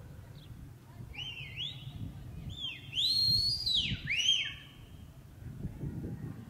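A bird calling: a quick run of high, arched whistled notes, each rising and falling, loudest in the middle, over a low background rumble.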